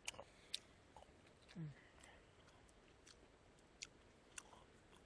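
Close-up chewing of stir-fried pork stomach (tripe), faint, with small wet clicks of the mouth and a short low hum about a second and a half in.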